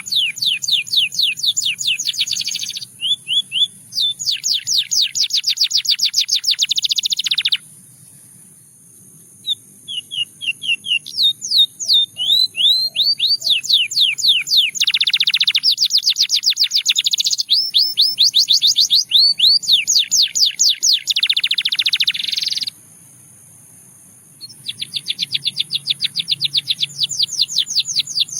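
Domestic canary (Russian singing canary) singing: phrase after phrase of rapid trills of repeated high notes, some rising, with two short pauses of about two seconds, over a steady high hiss.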